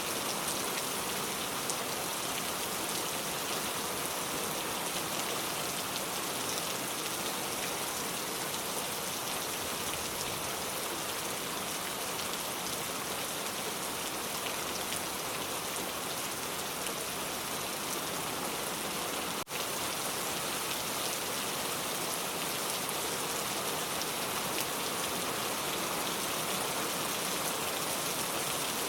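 Steady rainfall: a dense, even patter of raindrops. There is a split-second dropout about two-thirds of the way through.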